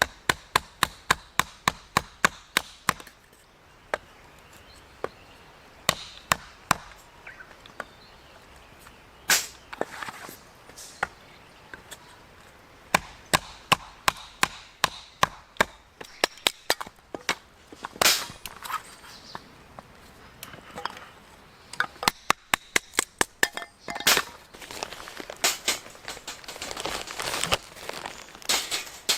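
Repeated sharp chopping strikes on wood, in fast runs of about three a second with pauses and scattered single knocks between, and denser clattering near the end.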